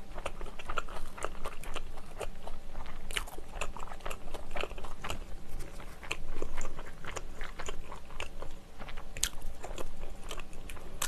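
Biting and chewing of a sausage onion bread roll, close to the microphone: many small clicks and crackles of the crust and wet mouth sounds.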